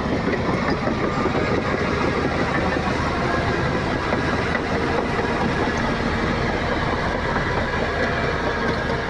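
Heavy diesel earth-moving machinery running steadily, with a dense, continuous metallic rattle.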